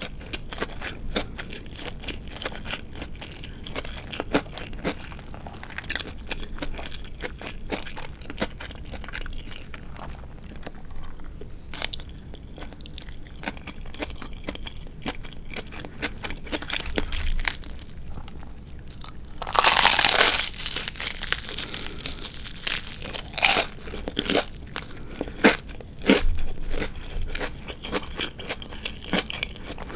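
Close-miked chewing and crunching of crispy Japanese tatsuta-age deep-fried chicken, with a steady run of small crackling bites. The loudest burst of crunching comes about twenty seconds in, with more sharp crunches a few seconds later.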